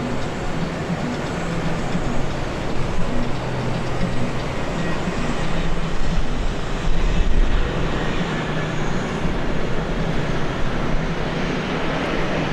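Airbus A330-900 airliner's Rolls-Royce Trent 7000 jet engines, a steady loud rumble with a low drone that swells slightly about halfway through as the aircraft passes.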